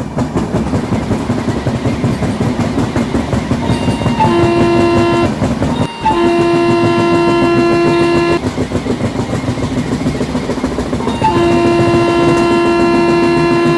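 Train running past with a steady rumble while its horn sounds three times: a short blast about four seconds in, a longer one about six seconds in, and a long held blast from about eleven seconds on.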